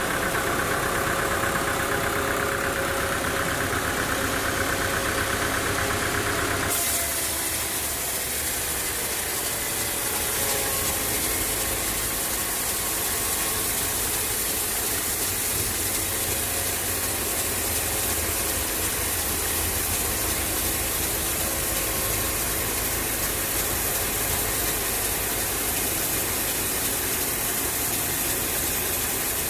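An engine running steadily at idle. About seven seconds in the sound changes abruptly: the higher tones drop out and a steady high hiss comes up, while the engine's low tones carry on.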